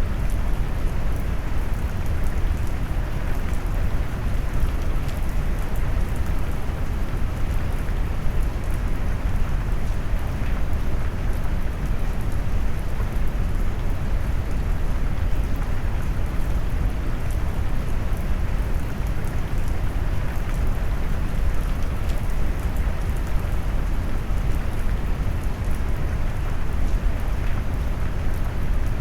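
Steady rain sound mixed with deep brown noise, a low, even rumble with fine raindrop ticks on top.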